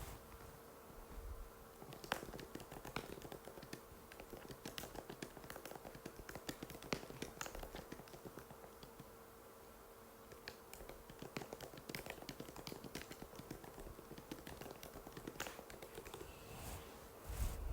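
Typing on an Apple MacBook butterfly keyboard: quick, irregular runs of soft key clicks with a short pause about halfway, over a faint steady hum. A low bump comes right at the end.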